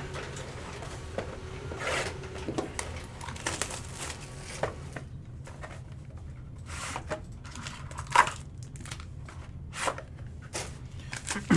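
Trading card packaging being opened by hand: plastic wrap and foil pack wrappers crinkling and tearing in scattered short rustles, over a faint steady low hum.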